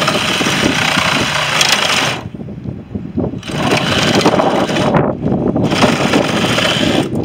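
Power tool cutting through the scrap unit's metal lines, running in three bursts of a second or two each with short pauses between.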